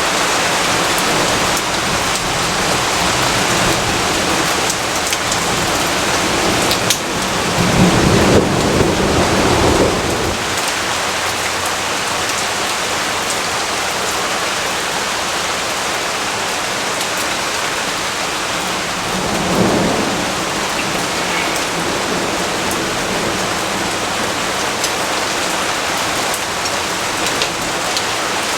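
Steady rain falling, with a low rumble of thunder swelling about seven seconds in and fading after about three seconds, and a shorter, fainter rumble around twenty seconds in.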